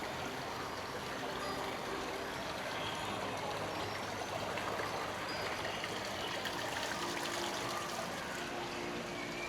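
Steady running water, a continuous even rush without a break.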